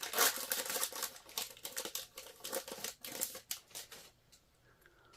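A trading card pack's wrapper crinkling as it is opened by hand, a dense run of crackles that stops about four seconds in, leaving a few faint clicks.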